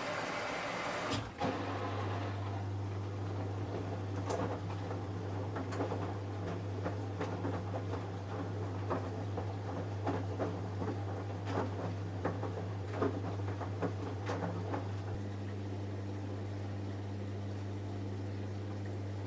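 Samsung Eco Bubble washing machine early in its cotton cycle: the rush of water filling the machine stops with a click about a second in. After that a steady low hum runs on, with irregular soft knocks and wet sloshing as the drum turns the soaked laundry. The knocks die away after about fifteen seconds.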